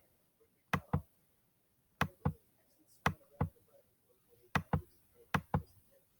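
Computer mouse clicking: five pairs of short, sharp clicks about a second apart, made while paging back through an on-screen storybook.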